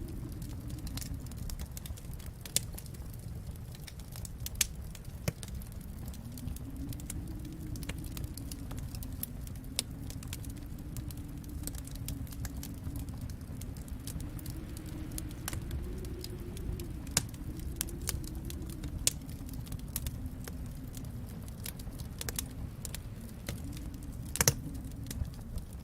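Wood fire crackling in a fireplace, with scattered sharp pops, the loudest near the end, over a low steady rumble that slowly swells and ebbs.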